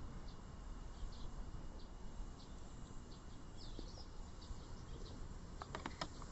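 Wood campfire burning with a low steady rumble, and a quick cluster of sharp crackles and pops near the end. Faint high chirps repeat about twice a second in the background.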